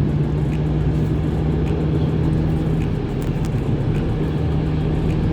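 Steady engine hum and road rumble of a moving car, heard from inside the cabin.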